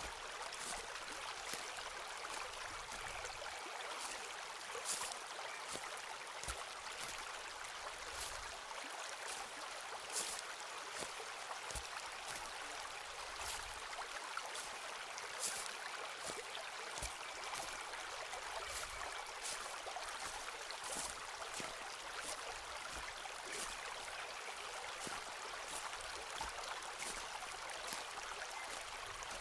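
Footsteps on a forest floor, heard as brief irregular crackles of leaves and twigs underfoot, over a steady rushing background like a stream.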